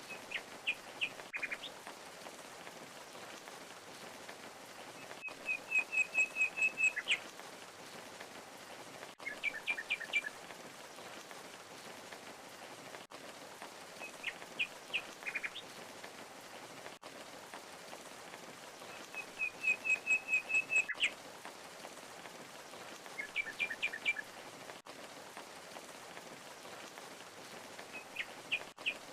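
Steady rushing waterfall noise with a songbird singing short phrases of quick chirps every few seconds, a couple of them as a rapid trill; the same run of phrases comes round again about halfway through, as in a looped recording.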